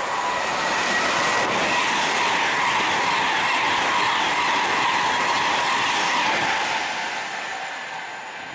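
A train passing close by: loud, steady noise of wheels running on the rails, fading away over the last two seconds as it goes.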